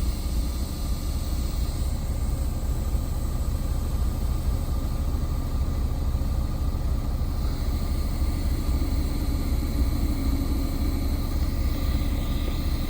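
Semi truck's diesel engine idling, a steady low rumble heard inside the cab, with a steady hiss from an air leak in the truck's air system, which the driver calls a bad air leak.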